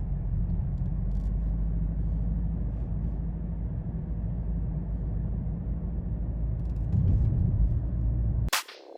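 Ferrari F40 LM's twin-turbo V8 running at a steady pace on the road, a low rumble that swells briefly near the end, then cuts off abruptly.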